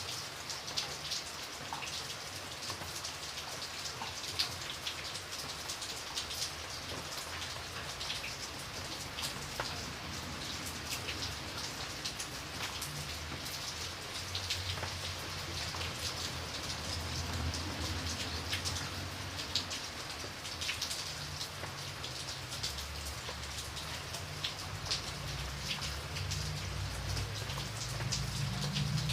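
Steady rain falling, with many separate raindrops pattering on a surface. A low rumble underneath swells in the second half.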